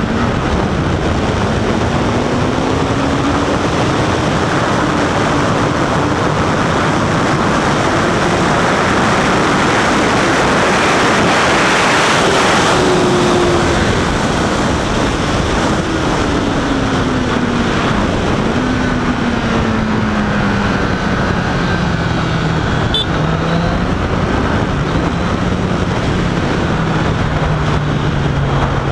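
Motorcycle engine running on the move, its pitch rising and falling as the rider works the throttle and gears, then settling into a steady note near the end, under a constant rush of wind and road noise that swells briefly about twelve seconds in.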